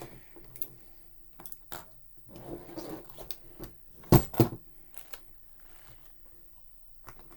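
Piano tuning tools being handled and rummaged through in a tool kit: scattered clicks and light metallic clinks with some rustling, and two sharp knocks in quick succession about four seconds in.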